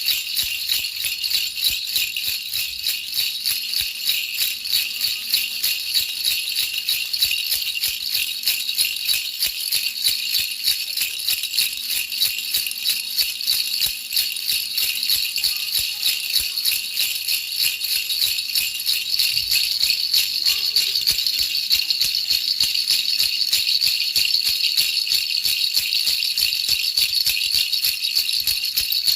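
A baby rattle shaken steadily and quickly, giving a continuous, dense, high jingling rattle.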